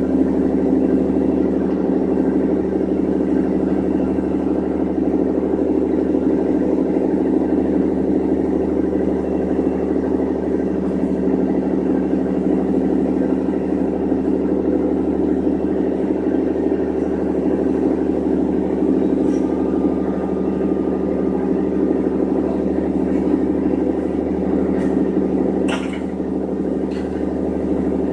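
An engine running steadily at an even speed, with a constant low drone. A few short clicks about three-quarters of the way through.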